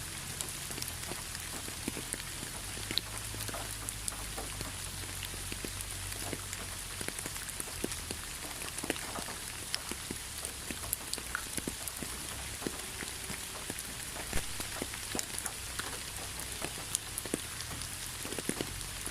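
Steady rain falling, with many individual drops ticking sharply on a surface over an even hiss and a faint low hum.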